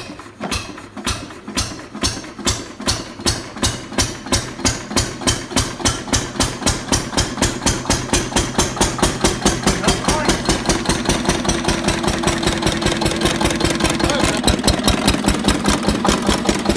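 Lister CS START-O-MATIC diesel generator engine running with a steady, pulsing beat, each firing stroke heard separately, picking up speed gradually.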